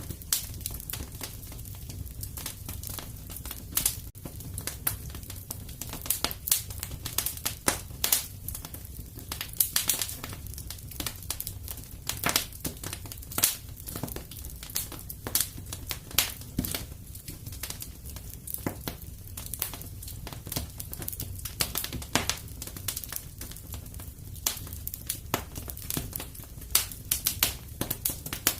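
Fire in a fireplace crackling, with dense irregular pops and snaps over a low steady rumble.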